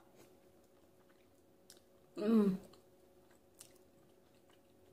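Soft chewing and faint wet mouth clicks as a person eats soft durian flesh, with one brief hummed 'mmm' a little over two seconds in.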